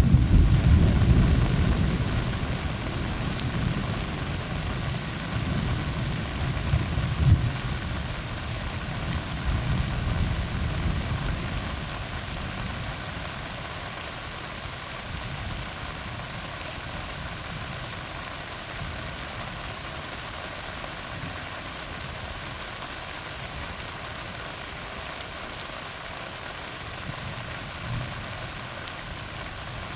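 Steady rain falling on a tar road, with a low rumble of thunder that is loudest at the start and dies away over the first dozen seconds.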